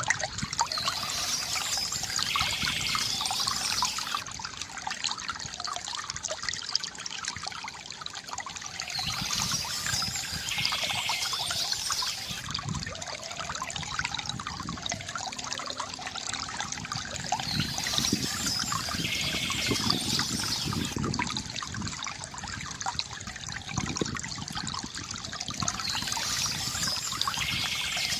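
Water from a bamboo fountain trickling and gurgling steadily, with splashes. A brighter patch of sound recurs about every nine seconds.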